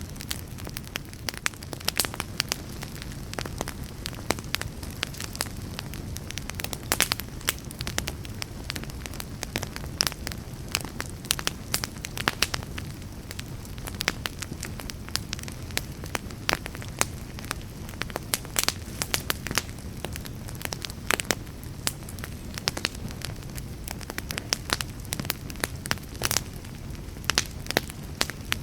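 Wood fire burning steadily, with a low rumble and many sharp crackles and pops at irregular intervals.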